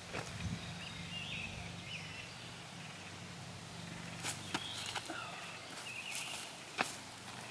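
Small birds chirping now and then over a steady low hum, with a few sharp clicks, the loudest one near the end.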